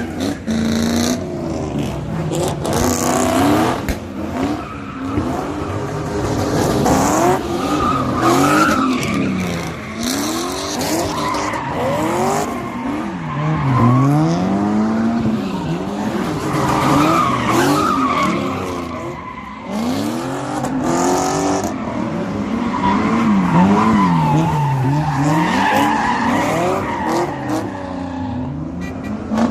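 A car engine revving up and down over and over, with tyres screeching now and then, as a car spins donuts.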